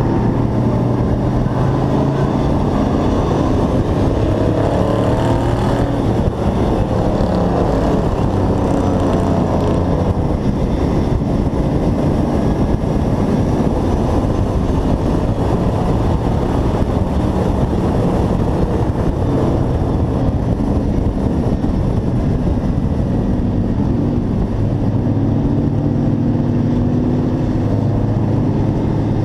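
Hobby-class race truck's engine running hard from on board, its pitch falling and rising again as it lifts and accelerates through the turns, over heavy rumble and wind noise.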